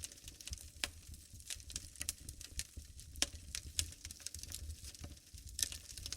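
Wood fire burning in a fireplace, crackling with irregular sharp pops and snaps over a low rumble, a cluster of louder pops near the end.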